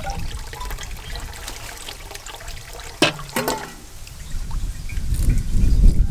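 Water trickling and pouring, over a low rumble, with two sharp knocks about three seconds in.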